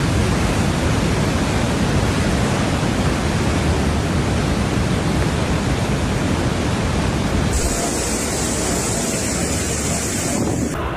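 Loud, steady rushing noise spread across all pitches, heavy in the low end. About seven and a half seconds in, a bright hiss is added on top and the low rumble thins.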